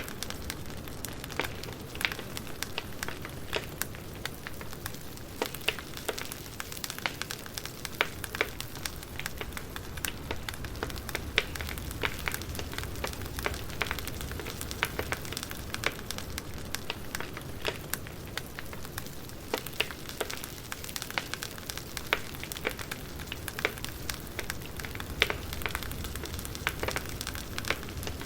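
Wood fire crackling: irregular snaps and pops over a steady low rumble and hiss of burning logs.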